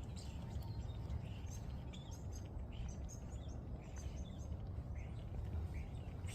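Small birds chirping in many short calls over a steady low background rumble.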